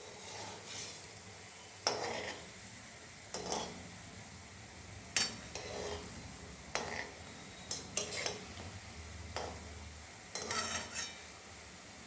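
A metal cooking utensil knocks and scrapes against a pan of frying oil about nine times, a second or two apart, as langcha dumplings are turned. A faint sizzle of slow frying runs underneath.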